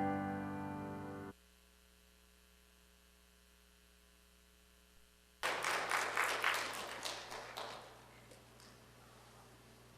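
The final keyboard chord of a hymn accompaniment rings and stops about a second in, leaving a faint hum. About five seconds in, a short round of applause from a small congregation rises and dies away within a few seconds.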